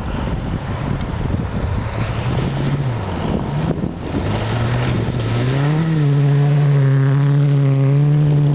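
Rally car engine revving hard as the car approaches. The revs climb, dip around three seconds in, then climb again and are held high and loud for the last few seconds as the car slides past sideways on snow.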